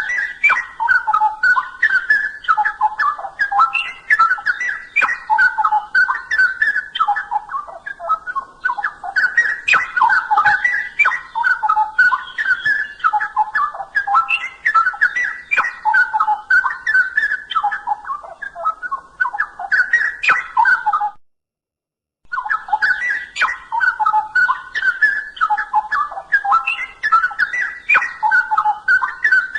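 Straw-headed bulbul (cucak rowo) singing: a continuous run of loud, rich warbling phrases. The song cuts off abruptly for about a second some two-thirds of the way through, then starts again.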